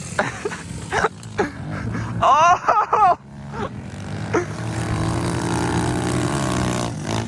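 Dirt bike engine running on the motocross track, getting louder from about halfway and then holding steady, with a short shout about two to three seconds in.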